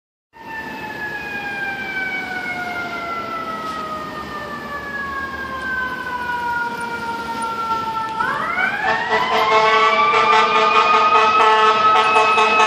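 Fire engine's mechanical siren winding slowly down in pitch, then spun back up about eight seconds in to a steady high wail, growing louder as the engine approaches.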